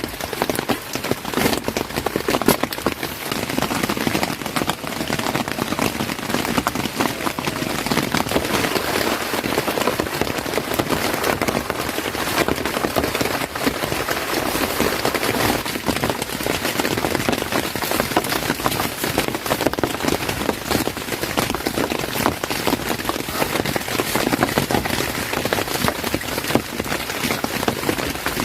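Heavy rain falling steadily, a dense hiss peppered with countless individual drop strikes.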